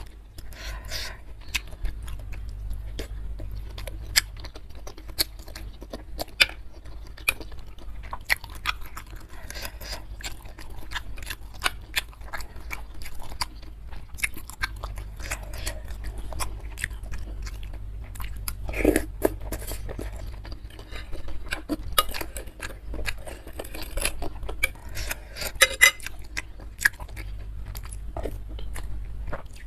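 Close-miked chewing and biting of bakso urat, beef tendon meatballs with beef and rice vermicelli in spicy broth: a steady run of short mouth clicks and smacks, louder for a moment about two thirds of the way in.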